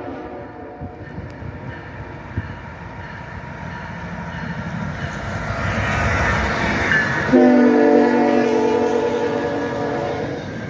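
CSX diesel freight train approaching, its engine and wheel rumble growing louder; the locomotive's air horn comes in abruptly about seven seconds in and keeps sounding.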